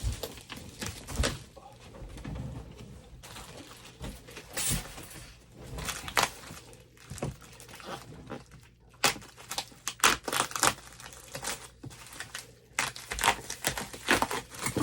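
Packing material being handled and pulled out of a shipping box: irregular rustling, crinkling and tearing with sharp knocks and clicks, busiest in the second half.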